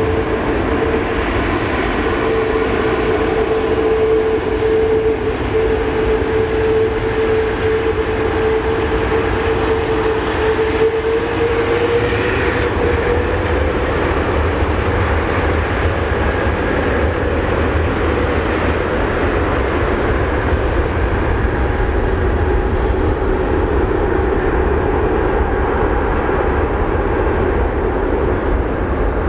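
Airbus A380's four Rolls-Royce Trent 900 turbofans at takeoff power, a loud steady jet rumble with a strong engine tone. The tone edges up midway, then drops lower later on as the aircraft goes past.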